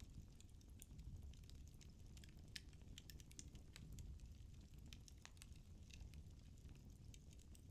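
Firewood burning in a fireplace, faint and crackling, with irregular small pops over a low rumble of the flames.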